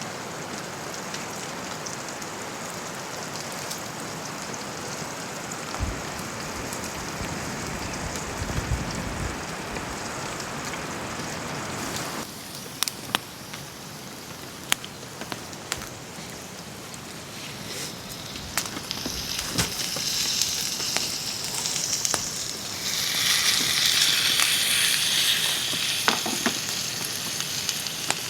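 Campfire crackling and popping under a steady hiss of rain. In the second half a brighter, higher sizzling hiss builds and then eases near the end.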